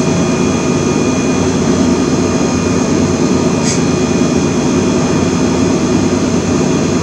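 Steady, loud mechanical drone with several faint steady whining tones over it, like a fan or machine running; a brief hiss about three and a half seconds in.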